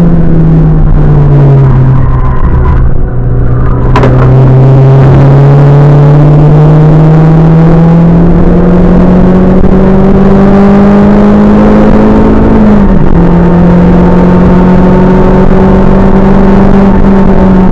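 Renault Clio 182's 2.0-litre four-cylinder engine heard loud from inside the cabin on track. The revs drop as the car slows for a corner, with a sharp click about four seconds in. They then climb steadily under hard acceleration, dip briefly near the end and hold high.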